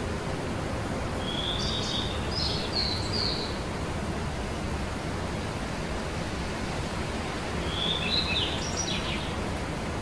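A small songbird sings two short bursts of high chirping notes, one about a second in and another near the end, over a steady rushing background hiss.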